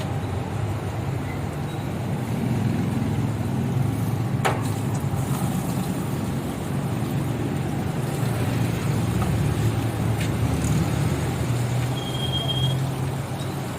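Diesel truck engine running steadily on biodiesel made from used cooking oil, a low even hum, with one sharp click about four and a half seconds in.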